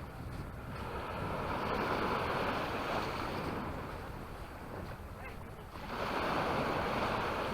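Sea waves washing onto the beach, the surf noise swelling about a second in, easing off, and swelling again about six seconds in, with wind buffeting the microphone.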